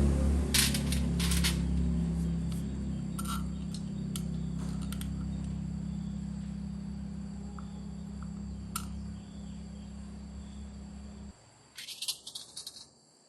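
A steady low mechanical hum that fades slowly and cuts off abruptly about eleven seconds in, with light metallic clicks and taps over it.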